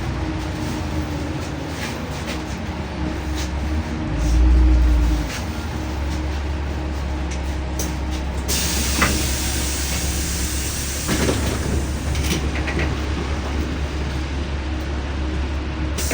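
Inside a LiAZ-5292.65 city bus: a steady low engine and road drone, with a brief louder low surge about four seconds in. From about halfway a steady hiss joins, with a couple of knocks.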